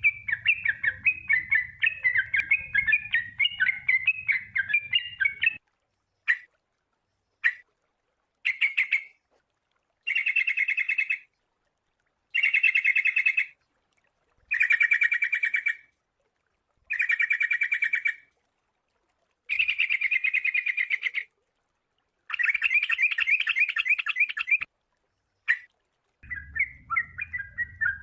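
Sooty-headed bulbul song. First comes about five seconds of rapid chattering phrases. Then a string of separate buzzy, trilled bursts, each a second or two long with short pauses between, and near the end the chattering resumes.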